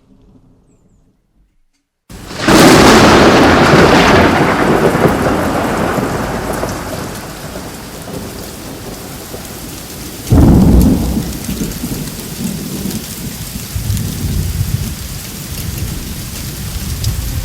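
Thunderclaps during a rain storm: a sudden loud crack about two seconds in that rumbles away over several seconds, a second sharp clap about ten seconds in, then steady rain with low rumbling thunder. The first two seconds are near silent.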